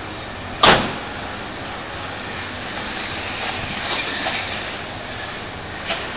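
RC short-course trucks and buggies running on a track, with a steady high-pitched whine of motors and gears. A loud sharp knock comes under a second in, and a smaller one near the end.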